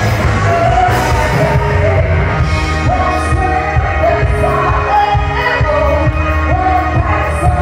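Live band playing a song with a lead singer, the sung melody over heavy bass and drums.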